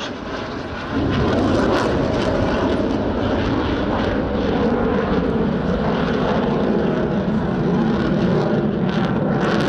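Jet noise of a MiG-21 Lancer fighter in display flight. It is a loud, steady rush that rises sharply about a second in and then holds.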